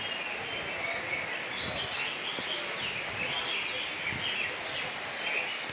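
Several caged oriental magpie-robins (kacer) singing at once in a songbird contest, with quick overlapping whistled and chirping phrases over a steady background noise.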